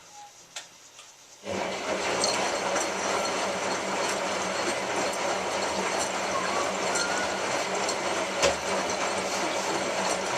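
Hotpoint 9534A washing machine starting up abruptly about a second and a half in, then running with a steady rush and a constant hum, with an occasional click and one sharper knock near the end.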